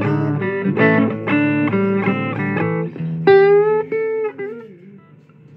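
Blues guitar playing an instrumental fill of picked notes and chords, then a sustained bent note about three seconds in that wavers and slides down, dying away near the end.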